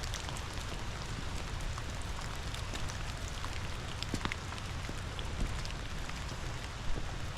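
Rain falling steadily, with scattered individual drops tapping close by, over a constant low rumble.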